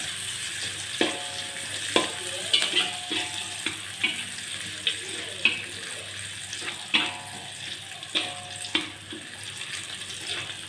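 Sliced shallots sizzling in hot oil in a wok, with a metal spatula scraping and knocking against the pan again and again as they are stirred.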